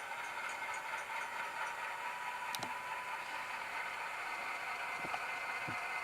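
Soundtraxx Tsunami sound decoder in a model C40-9W diesel locomotive playing its GE FDL-16 prime mover sound through the model's small speaker: a steady, tinny engine drone, with a few faint clicks.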